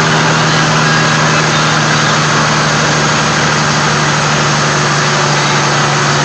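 Heavy truck's Caterpillar 3406E diesel engine running steadily at a constant speed.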